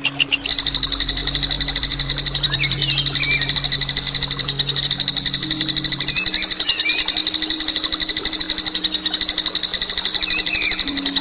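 A songbird's long, harsh rolling trill: a very rapid, buzzy rattle of high notes held for about ten seconds. It starts about half a second in and cuts off sharply at the end.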